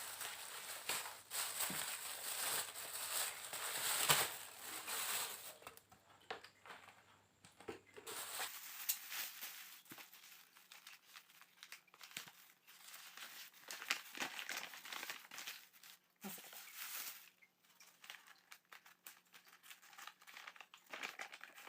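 Plastic bags and paper food wrappers crinkling and rustling in irregular bursts as takeaway food is handled and unwrapped.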